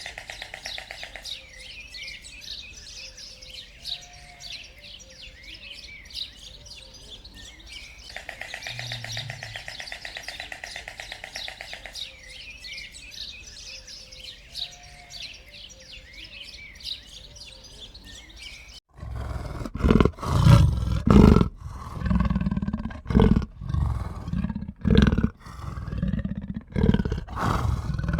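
A bird chirping and calling, the same stretch of about eight seconds heard twice over. About two-thirds of the way in it cuts to a large animal's loud, deep calls in a quick series of short bursts.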